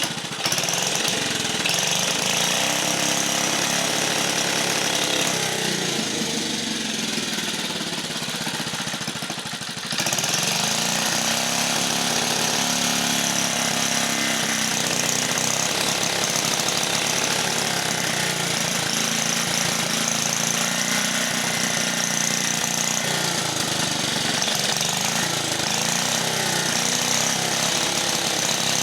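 1950 REO small engine running steadily, getting abruptly louder about ten seconds in.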